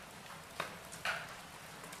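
Wood fire in a fireplace crackling: two sharp pops about half a second apart over a steady low hiss.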